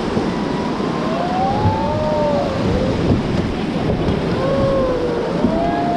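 Whitewater river rapids rushing steadily and loudly around a raft, with wind buffeting the microphone.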